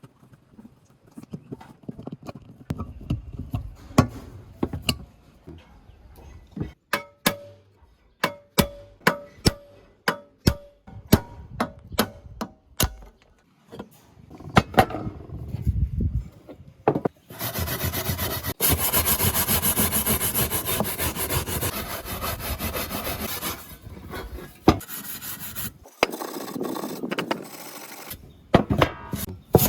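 A string of light metallic clicks and taps, about one a second, some ringing briefly. Then, from a little past halfway, a steady harsh scraping of an abrasive rubbing on metal, typical of rust being sanded or brushed off a fan part. The scraping pauses briefly a few times near the end.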